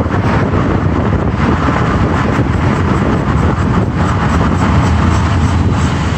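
Mitsubishi Outlander Sport in motion: a steady, loud road and running rumble with a few faint, irregular knocks, recorded to trace an odd noise from the rear of the vehicle.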